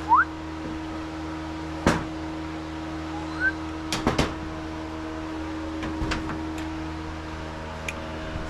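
Hand work on the engine's small parts: a few clicks and knocks, a quick double knock near the middle and two short rising squeaks, over a steady hum.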